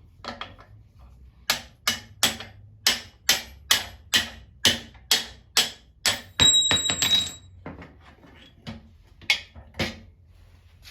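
A hammer striking steel in a quick run of about a dozen blows, roughly three a second, driving a punch against the pallet jack's pump parts during disassembly. Around six and a half seconds in, a burst of blows with a bright metallic ring, then three more spaced strikes near the end.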